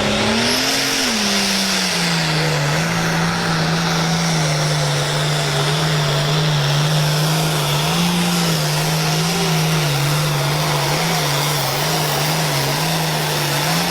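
A pulling tractor's engine running hard. Its pitch rises briefly about a second in, then settles into a steady, loud drone that wavers slightly.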